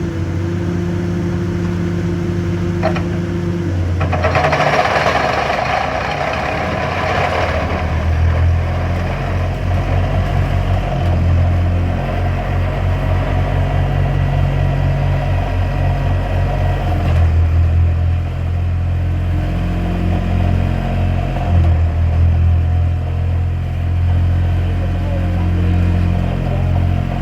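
Motor vehicle engine running, a low steady pulsing hum, with a louder rushing noise about four seconds in that lasts a few seconds.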